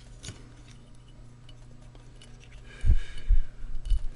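Small metal ticks and clicks of a screw and screwdriver being fiddled into place to fasten an output chip to its heatsink, then a cluster of dull knocks about three seconds in. A faint steady hum runs underneath.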